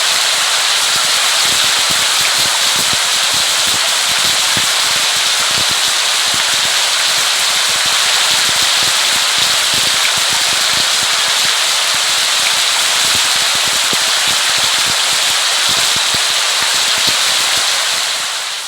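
Steady rain: a dense hiss full of many sharp, close drop impacts, fading out near the end.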